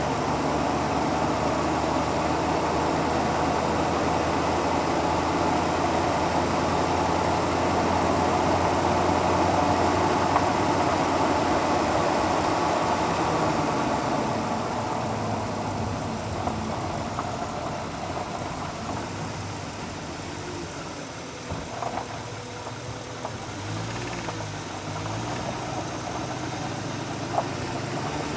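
Car engine running steadily at idle, easing to a quieter, lower running about halfway through, with a few short clicks near the end.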